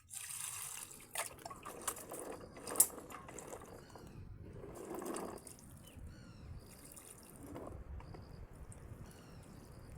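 Water splashing and dripping, with a few sharp clicks, the loudest about three seconds in.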